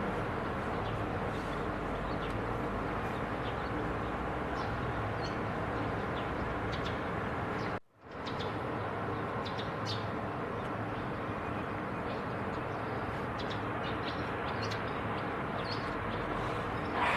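Outdoor field recording: a steady background rush with scattered short, faint high bird chirps, broken by a sudden drop to silence for a moment about eight seconds in.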